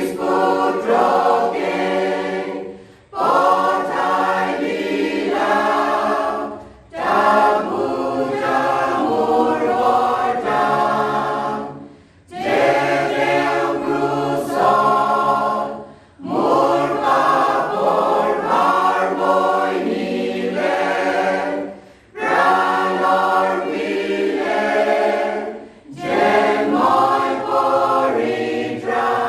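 Choir singing in phrases of about four seconds, each broken off by a short pause.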